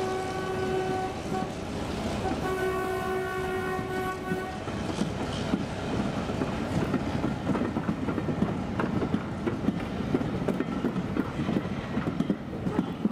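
Diesel locomotive horn sounding two held blasts in the first few seconds, followed by passenger coaches rolling past with a steady clatter and knocking of wheels on the rails.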